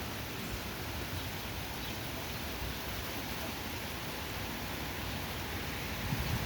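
Heavy thunderstorm rain pouring down, a steady even hiss.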